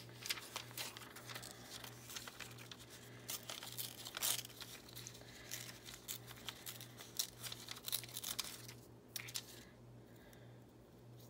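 Paper being torn and crinkled by hand in many short, quick crackles, easing off about nine seconds in.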